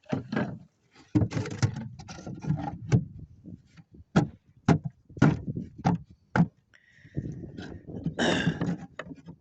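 Wooden hive frames and a divider being handled and set into a wooden bee box: a run of sharp wooden knocks and short scrapes, a dozen or so irregular strokes.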